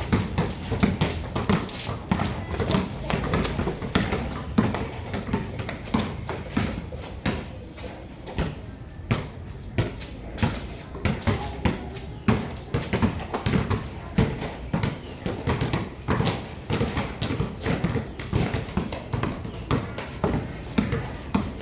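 Several basketballs being dribbled at once on a hard court, an irregular patter of overlapping bounces, several a second.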